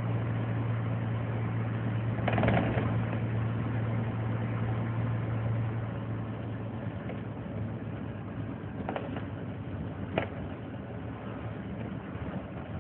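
Scania 124L 360 truck's diesel engine idling with a steady low hum that weakens about halfway through. A short burst of noise comes about two seconds in, and two sharp clicks near the end.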